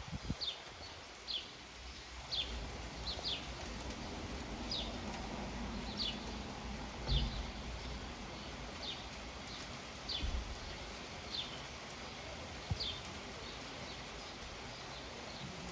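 A bird repeating a short, high, falling call about once a second, over a steady low background rumble that swells for a few seconds in the middle.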